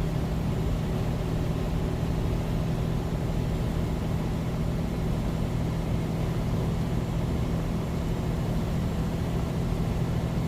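Semi truck's diesel engine running steadily while under way, a constant low drone with road and wind noise, heard inside the cab.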